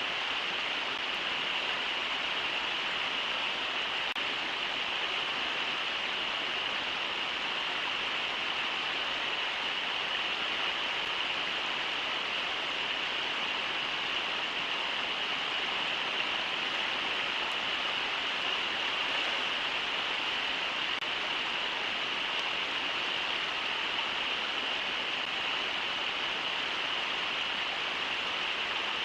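Brooks River rushing steadily over the shallow rocky riffles: a constant, even rush of water.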